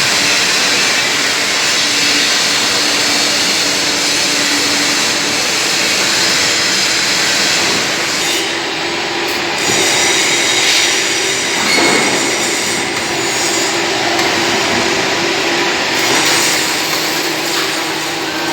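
Robotic welding cell: the welding arc hissing and crackling continuously, with a steady machine hum underneath.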